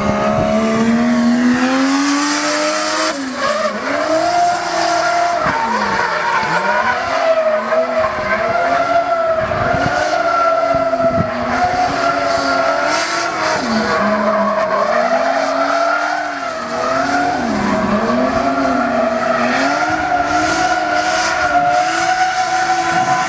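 A drift car's engine revving hard, its pitch dipping and climbing again about once a second as the throttle is worked through the drift. Tires squeal throughout.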